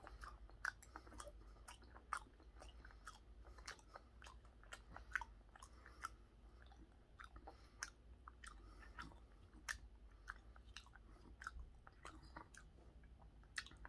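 Faint chewing of raw tuna belly sashimi: soft, irregular wet mouth clicks, about one or two a second.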